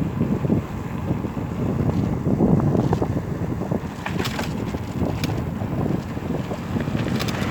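Wind buffeting the microphone of a moving bike, a rough, gusting low rumble, with a few light clicks in the second half.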